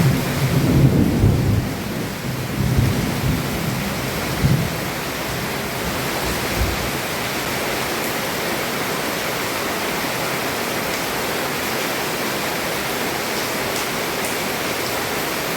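Heavy rain falling steadily on a roof, with a roll of thunder rumbling through the first few seconds before the rain goes on alone.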